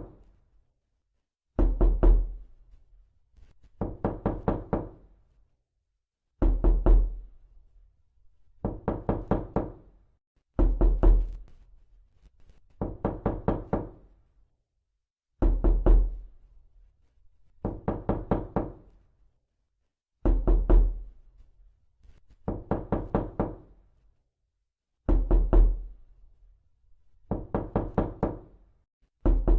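Knocking in quick runs of three to six knocks, repeated roughly every two seconds with silence between.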